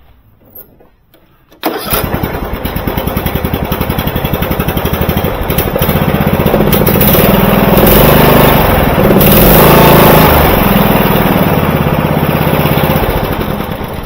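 Vintage Murray 11/36 riding mower's engine catching suddenly a couple of seconds in and running, loudest in the middle, then dying away near the end. It runs now that its stuck fuel solenoid has been cleaned.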